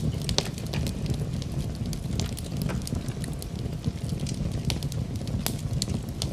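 Fire crackling in a fireplace: frequent sharp pops and snaps at irregular intervals over a steady low rumble of the flames.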